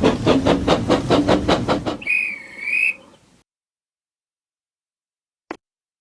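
Battery toy train's built-in electronic sounds: a fast pulsing musical chugging, then a wavering whistle toot about two seconds in that stops after about a second. A single sharp click comes near the end.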